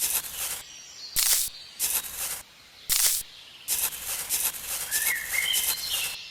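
A series of short, hissing scrapes, a few separate ones and then a longer run of them. Near the end a small bird chirps briefly a few times.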